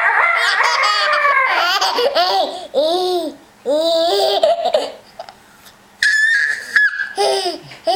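Baby laughing in repeated short bursts of giggles, with a pause near the middle. A brief high steady tone comes about six seconds in.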